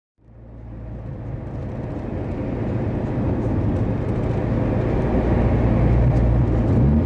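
Subaru Legacy driving, heard from inside the cabin with the windows up: a steady low engine and road drone that fades in and grows louder over the first few seconds.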